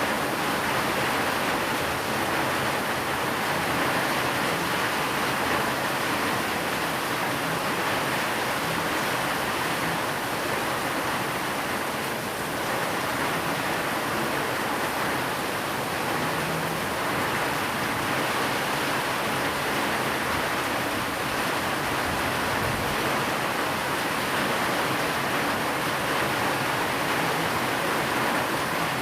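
Steady rain, an even unbroken hiss with no breaks or thunder claps, blended with white noise.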